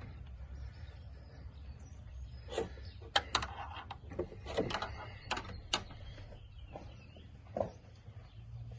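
A handful of sharp plastic clicks and knocks, bunched between about two and six seconds in, from handling quart bottles of motor oil and a funnel, over a low steady hum.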